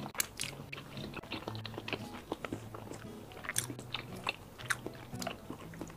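Close-miked chewing of a mouthful of raw salmon in chili oil, a string of short wet mouth clicks and smacks.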